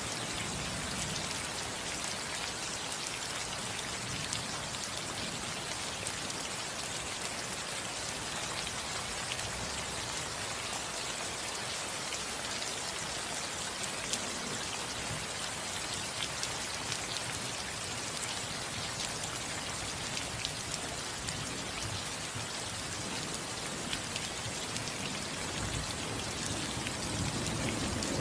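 Steady rain falling on a roof, a dense patter of many small drop ticks. A low rumble of thunder starts to build near the end.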